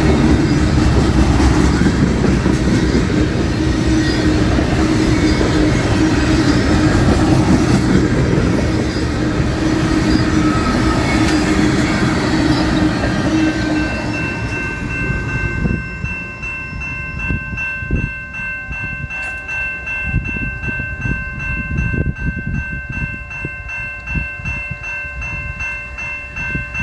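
A train passing close by. A loud rumble of engine and wheels fills the first half and fades, then cars roll past with scattered knocks of wheels over rail joints. In the second half a steady, high, multi-toned ringing sounds on.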